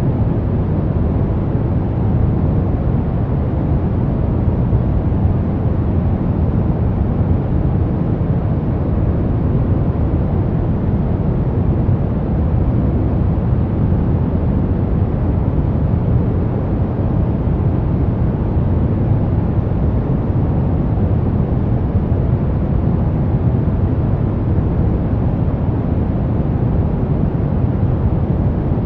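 Brown noise: a steady, deep rumbling hiss, heaviest in the bass and fading toward the treble, with no change or pattern.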